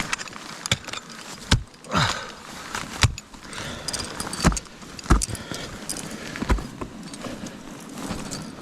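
Ice axes and crampons striking ice in uneven, sharp blows every half second to second and a half, with climbing hardware jangling between them.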